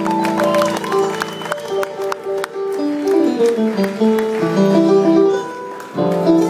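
Live instrumental music played on stage: held chords under quick runs of separate melodic notes, briefly dropping in level about six seconds in.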